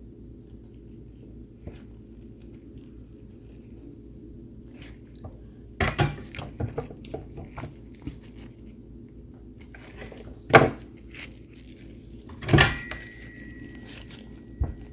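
Small metal tools and parts clattering on a workbench: a burst of clatter about six seconds in, a sharp knock near the middle, and another knock about two-thirds through that leaves a thin ringing tone, all over a steady low hum.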